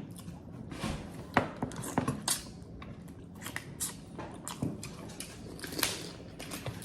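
Crab shells being cracked and picked apart while eating: irregular sharp crunches and wet clicks, with chewing.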